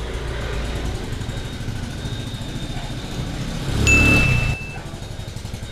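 Road traffic heard from a moving motorcycle: a steady engine and road rumble. About four seconds in it swells louder for under a second, with a short high beep over it.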